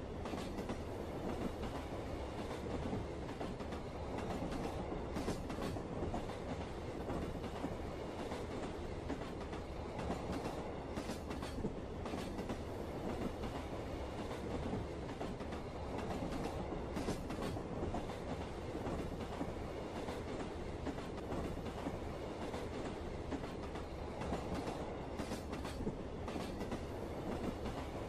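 A train running steadily on rails: a continuous rumble with occasional sharper clicks from the wheels.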